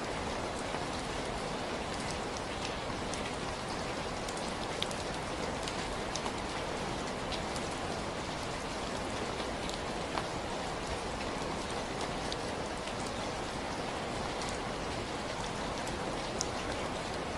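Steady rain falling on a surface, a dense even hiss with scattered distinct drop ticks throughout.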